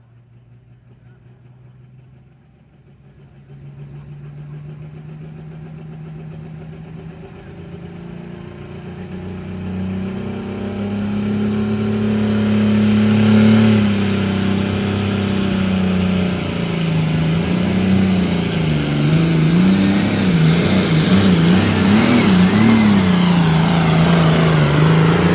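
John Deere 4010 pulling tractor's six-cylinder engine running under full load on a pull down the track. It builds louder over the first ten seconds, then its pitch wavers up and down over the last several seconds as the load fights it.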